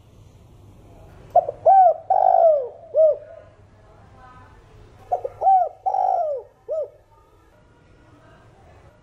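Spotted dove cooing: two phrases of four or five arching coos each, the first about a second and a half in and the second about five seconds in, each phrase with one longer drawn-out note.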